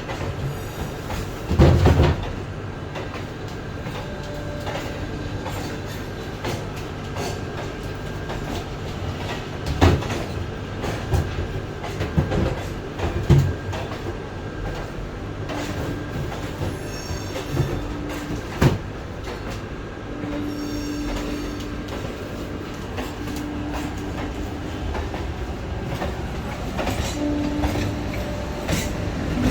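Vande Bharat Express electric train running, heard from inside the coach: a steady rumble of wheels on the track with a few scattered knocks. A low hum comes and goes in the second half.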